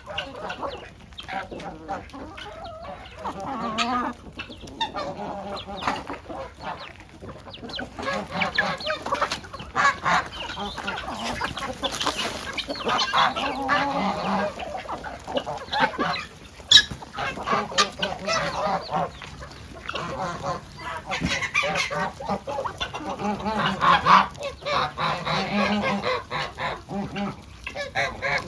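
A mixed poultry flock of chickens and geese calling over one another throughout: clucking hens and honking geese. One sharp knock sounds about midway.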